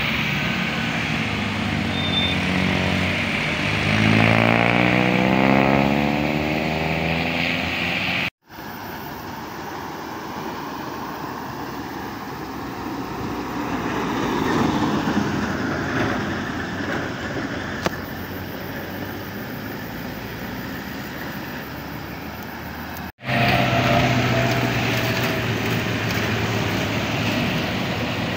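Heavy vehicle engines passing close by on a climbing bend, in three clips cut together; in the first, the engine's pitch rises steadily as it accelerates about four to seven seconds in.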